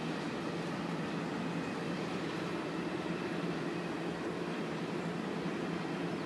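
Steady low drone of a distant diesel freight train's locomotives on the main line.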